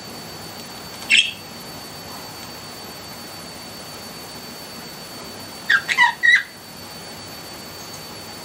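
Pet budgerigars chirping: one short chirp about a second in, then a quick run of three or four chirps a little past the middle, over a faint steady high-pitched tone.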